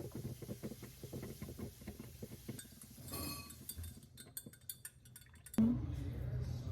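Many light clinks and taps of glass and dishes being handled. About five and a half seconds in, a sudden, louder, steady low background noise takes over.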